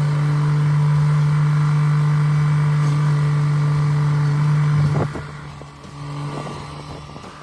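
An engine running at a steady speed with a loud, even hum. About five seconds in the sound drops away sharply and its pitch dips, leaving a fainter hum.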